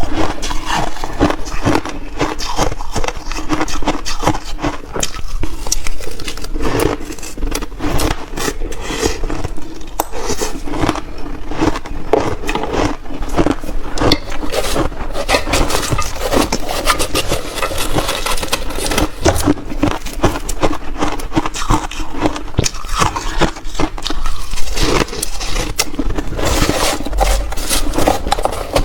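Close-miked chewing of big mouthfuls of shaved ice: a dense, unbroken run of irregular crunching and crackling.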